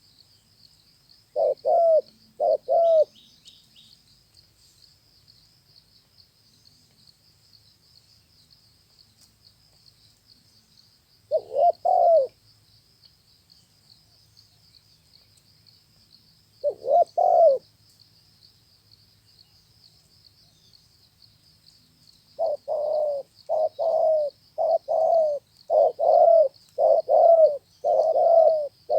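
Spotted dove (a 'tơ máu' bird) cooing: a couple of coos early, single phrases later, then a long run of repeated coos in the last seconds. A faint steady high trill sounds underneath throughout.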